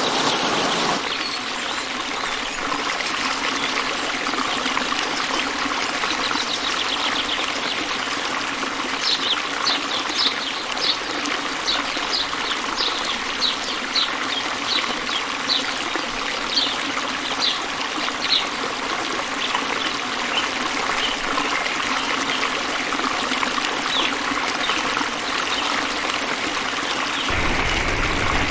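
Steady trickling of running water, with a bird calling in a quick series of short, high chirps, about two a second, from around nine seconds in to about eighteen seconds in.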